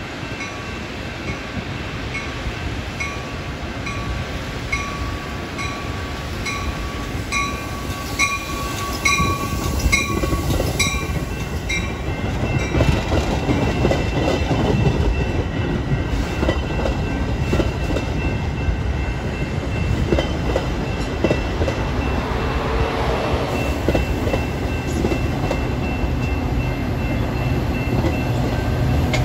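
A bell rings steadily with regular strokes, growing louder as the Metra commuter train approaches, and stops about twelve seconds in. After that the train's stainless steel bi-level coaches roll past with a steady rumble and wheel clicks over the rail joints, and near the end the diesel locomotive pushing at the rear goes by with a low steady hum.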